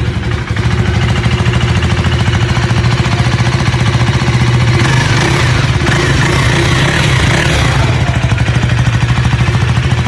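KTM Duke 390's 349 cc single-cylinder engine idling steadily, its exhaust note loud and even.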